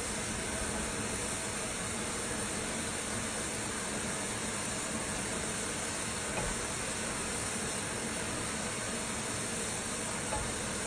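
Steady hiss of steam from the LMS 16440 steam tank locomotive, even and unbroken, with no exhaust beats.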